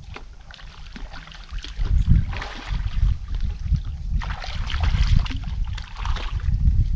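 Wind rumbling on the microphone, with a few short bursts of hissing noise about two, four and six seconds in.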